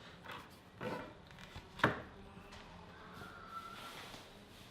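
A few knocks on wood as the wooden stick of a homemade bird stand is worked on, the sharpest and loudest about two seconds in.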